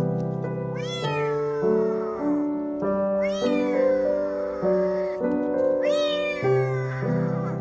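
A cat meowing three times, each meow rising then falling in pitch, over background keyboard music with steady held chords.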